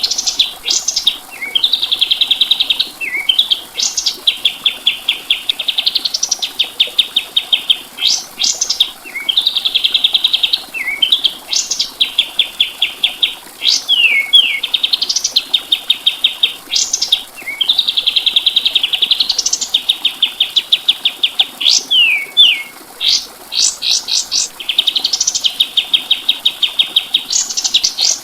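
A kapas tembak songbird singing loudly and continuously. It repeats phrases built of a fast, even trill with quick rising and falling whistled sweeps, a new phrase every couple of seconds.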